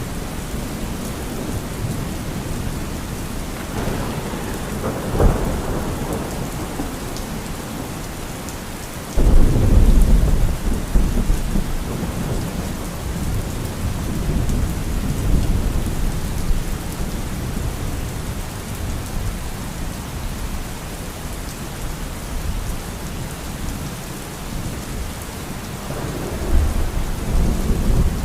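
Thunderstorm: steady heavy rain with rolling thunder. A rumble builds about four seconds in, a loud sudden thunderclap breaks about nine seconds in and rumbles on for several seconds, and another roll of thunder comes near the end.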